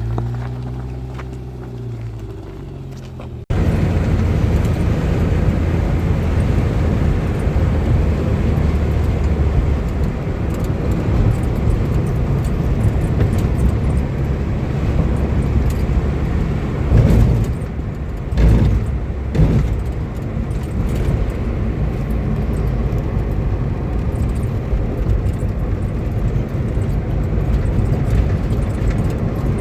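Motor vehicle sound: for the first few seconds an engine note rises and falls. Then the sound cuts abruptly to a louder, steady road rumble, with a few louder knocks near the middle.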